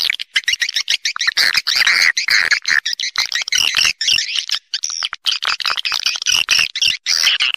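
Swiftlets (walet) calling: a dense flock chatter of quick, high, overlapping twittering chirps. This is the swiftlet roosting call used to lure swiftlets into nesting houses.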